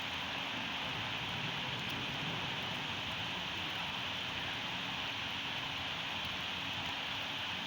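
Steady heavy rain falling, an even hiss of rain on surfaces with no distinct drops, thunder or gusts standing out.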